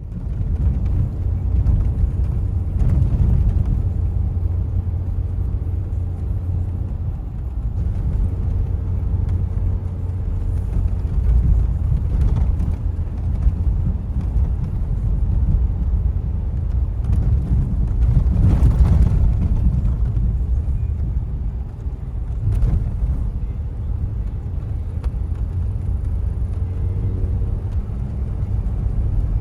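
Car driving along a road: a steady low rumble of engine and tyre noise, with a knock now and then.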